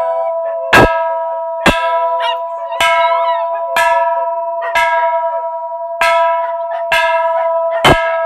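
A bell struck about once a second, eight times, each strike ringing on with a clear, steady tone. A dog's faint wavering howl rises and falls between the strikes.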